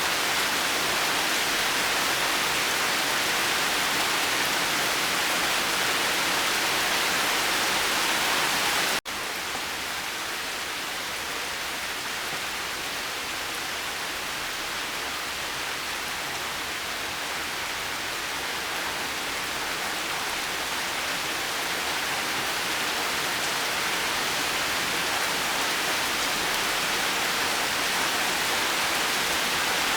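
Steady rain falling, a continuous even hiss. About nine seconds in it cuts out for an instant, comes back a little quieter, then slowly swells again.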